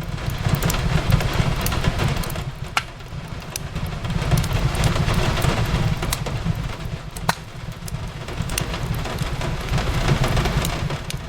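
Wood fire crackling with scattered sharp pops, the clearest about three and seven seconds in, over the steady hiss of rain on a window and a low rumble.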